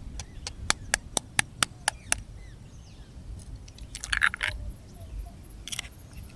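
A quick run of sharp taps or clicks, about four a second for two seconds, then a short crunching clatter about four seconds in and a brief one near the end, over a low steady rumble.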